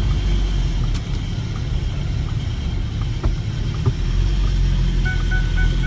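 Kubota turbo-diesel engine of a Ford Ranger pickup running, a steady low rumble. About five seconds in, an evenly pulsing high tone begins over it.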